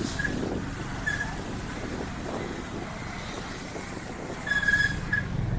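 Steady low rumble of a motor vehicle moving along the street, with a few short high-pitched chirps, the loudest about four and a half seconds in.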